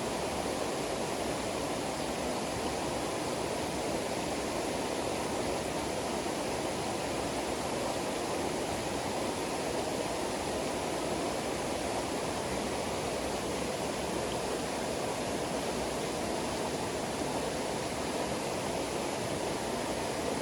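Steady, even rushing of water, with no separate drops or splashes standing out.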